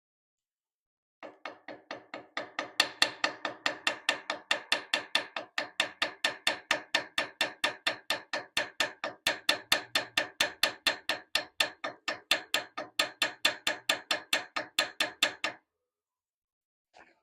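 A small hammer tapping metal in a long, even run of light blows, about four a second, each with a metallic ring, stopping a couple of seconds before the end; one more faint tap follows.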